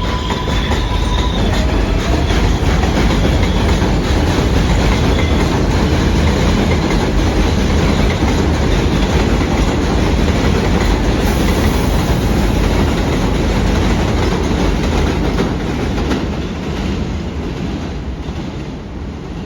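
R188 subway train running through the station, its wheels clattering on the rails with a heavy rumble. It is loud for most of the time and fades away over the last few seconds. A thin pitched whine is heard in the first second or so.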